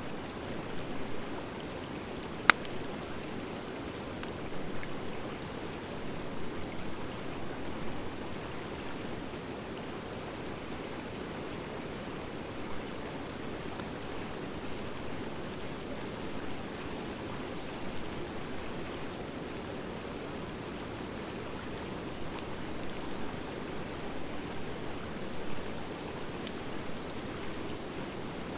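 Wood fire of driftwood and dry hardwood burning: a steady low rush of flame with scattered sharp crackles, and one loud pop about two and a half seconds in.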